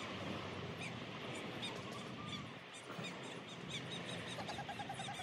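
Small birds chirping in quick, repeated short high notes over a steady outdoor background hiss, with a fast trill of repeated notes near the end.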